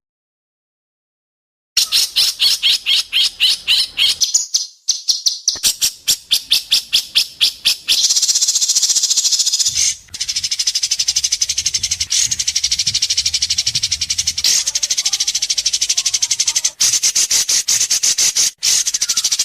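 Recorded songbird 'besetan' call: a long string of sharp, rasping buzzy notes, high-pitched and fast at about four to five a second, merging into a continuous rasp about a third of the way in. It is played as a bird-training masteran track and starts after a moment of dead silence.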